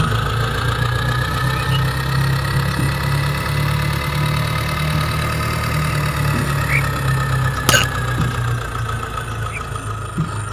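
Mini diesel engine water pump running steadily, a low hum with a high whine over it that rises slightly and then falls. One sharp click about three-quarters of the way through.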